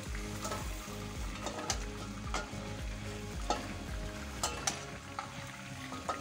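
Rabbit pieces frying in olive oil, sizzling steadily in the pan. Scattered clicks and scrapes come from a slotted spoon knocking against the frying pan and pot as pieces are lifted out.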